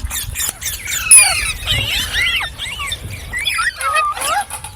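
Ringneck parrot giving a rapid string of squeaky chirps and whistles that swoop up and down in pitch, mixed with short clicks, loudest about a second in.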